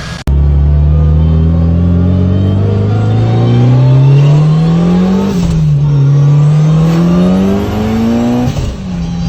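Mitsubishi Lancer Evolution IX's turbocharged four-cylinder engine under hard acceleration: the revs climb steadily and fall at an upshift about five seconds in, then climb through the next gear and fall again at another shift near the end.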